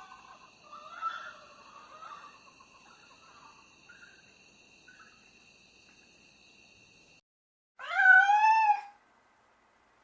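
A cat meowing once, a loud drawn-out meow that rises and falls in pitch, near the end, after several seconds of faint scattered chirps.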